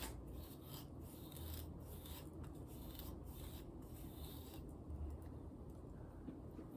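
Faint, repeated rasping of a comb dragged through hair to detangle it, about two to three strokes a second, easing off about four and a half seconds in.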